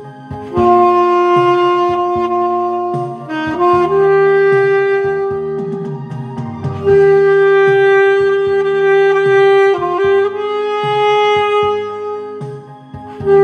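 Saxophone playing a slow melody in long held notes, each lasting two to three seconds, over a backing track with a bass line.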